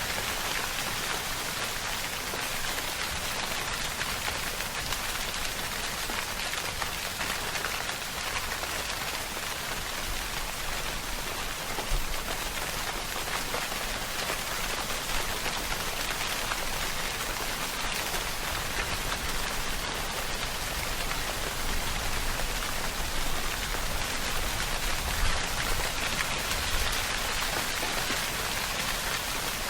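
Steady rainfall: an even hiss of many drops landing on a surface, with a few slightly louder drops standing out now and then.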